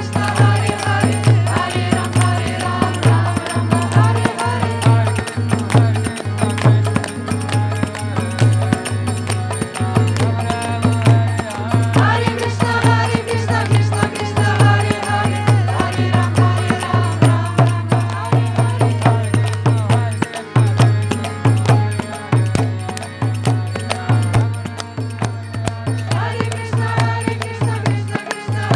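Kirtan music: a steady, driving drum beat with jingling hand cymbals under held melodic notes.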